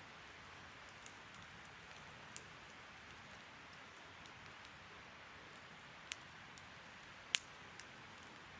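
Wood bonfire crackling: a faint steady hiss with a handful of sharp, scattered pops, the loudest about seven seconds in.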